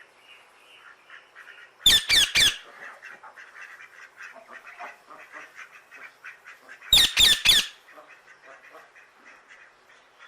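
A parrot squawking: two bursts of three loud, harsh calls each, about five seconds apart, over faint scattered chirping.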